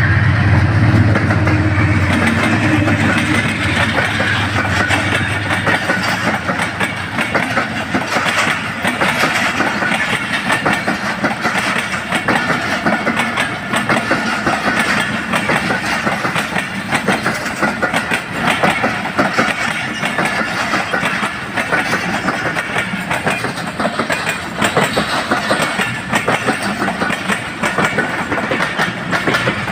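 A train passing close by: a diesel locomotive's low engine drone for the first few seconds, then the steady clickety-clack of the wagons' wheels over the rail joints.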